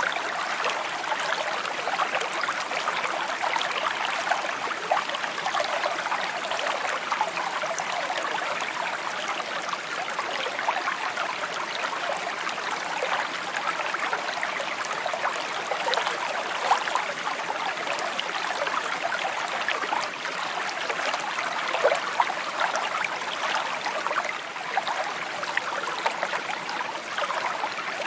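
A small stream babbling steadily, with many little gurgles and splashes.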